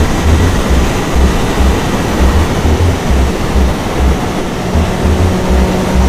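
Wind rushing loudly over a helmet-mounted camera microphone while a Triumph Daytona 675R three-cylinder sport bike rides at speed, with an uneven low pulsing underneath.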